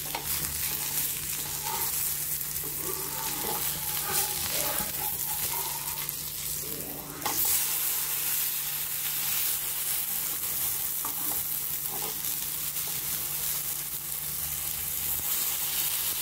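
Beef chapli kababs sizzling as they shallow-fry in hot oil in a pan, while a slotted metal spatula scrapes the pan turning them over. The sizzle dips briefly and swells again about seven seconds in.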